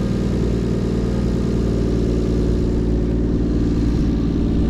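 A car engine idling steadily close by, its low, even note holding without revving.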